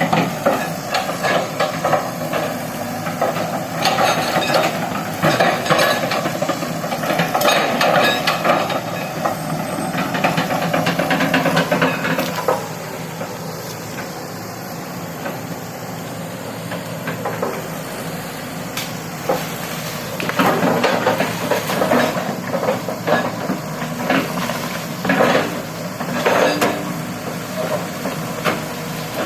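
Excavator working: its diesel engine drones steadily under repeated metallic clanking and rattling. The clatter is busiest for the first twelve seconds, eases off, then picks up again about twenty seconds in.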